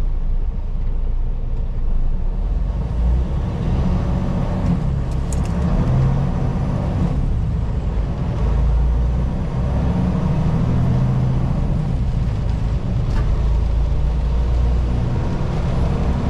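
Semi-truck cab interior while driving: a steady low diesel engine drone with road noise, and a couple of faint clicks.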